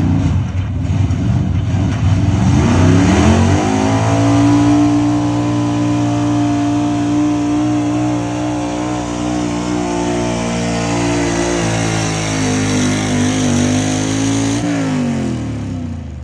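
Gas-engined 4x4 truck's engine revving up to full throttle and held at high, steady revs while pulling the sled, then winding down near the end as the throttle is released.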